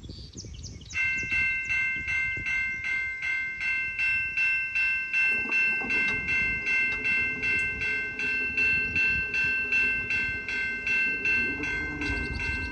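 Railroad crossing bell ringing steadily, about three strokes a second. About five seconds in, a lower steady sound from the approaching CN freight train joins it.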